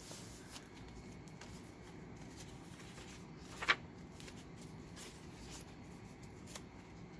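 Faint rustling and light taps of paper pages and card being handled and turned in a handmade journal. One short squeak a little past halfway is the loudest sound.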